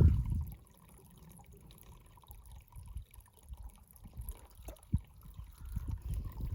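Faint water trickling and dripping while a Grayl GeoPress purifier bottle's outer cup is filled, with soft handling knocks and one sharper thump about five seconds in. Wind buffets the microphone for the first half second.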